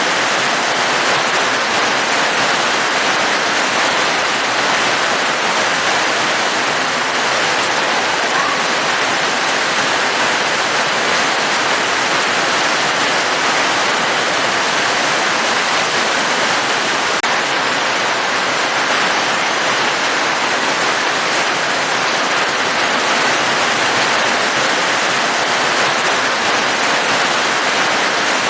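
Steady rain falling, an even hiss of water with no breaks or changes.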